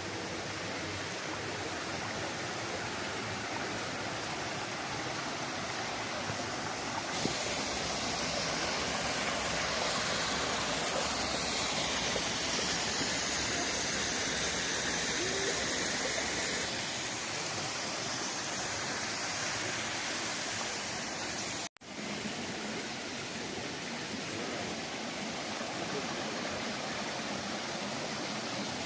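Rushing water of a waterfall on a mountain stream, a steady dense roar that breaks off for an instant about three-quarters of the way through and then carries on.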